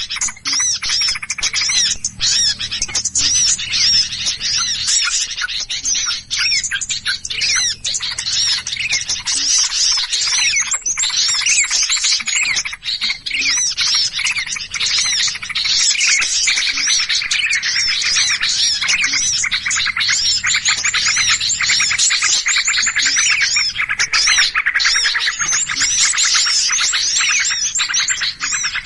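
Bird-lure recording of many small birds chattering at once: a dense, unbroken stream of rapid, overlapping high chirps and calls. This is the agitated 'noisy bird' sound played to draw other birds in.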